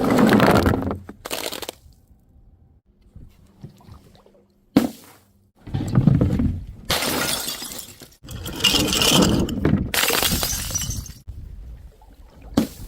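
Glass bottles smashing one after another, about six separate crashes, each followed by a clatter of breaking glass.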